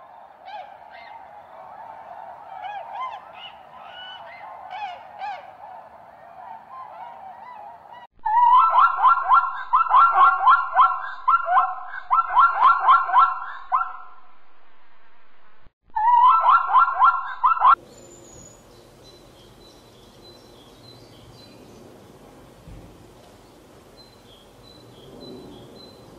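A flock of birds honking. A dense, overlapping chatter of calls gives way to loud, rapid honking in bursts, which breaks off abruptly. After that, only a quieter background with faint high chirps remains.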